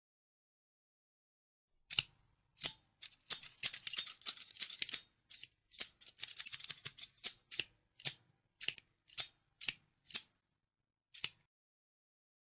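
Scissors snipping: after about two seconds of silence, a flurry of quick crisp snips, then single snips about half a second apart that thin out toward the end.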